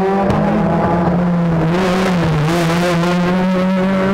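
Rally car engine running hard at high revs, its note wavering up and down with the throttle. A hiss rises in the middle and fades again.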